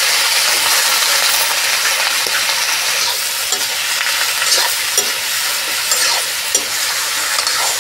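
Pumpkin pieces sizzling steadily in hot oil in a metal kadhai. From about halfway through, a metal spatula stirs them, scraping and clicking against the pan a few times.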